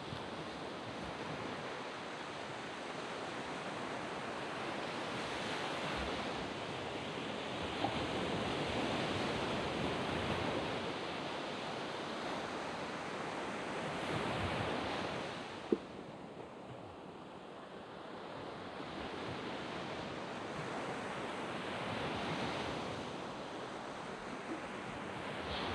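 Waves breaking and washing up on a sandy beach, in a steady hiss that swells and ebbs as each wave comes in and draws back. There is a softer lull after about sixteen seconds, and a brief click just before it.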